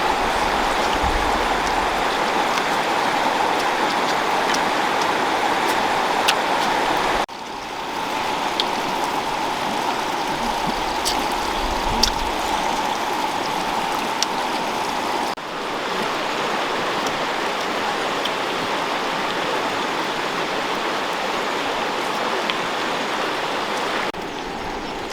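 Steady rushing noise like running water, with a few faint scattered ticks. It changes abruptly about seven and about fifteen seconds in.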